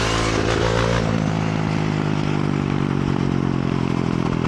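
Honda CRF450R single-cylinder four-stroke dirt bike engine running at a steady speed while riding, over wind and tyre noise.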